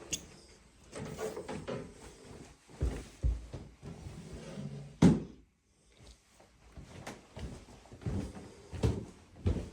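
Irregular knocks and thumps, with one loud bump about five seconds in, after which the sound briefly cuts out.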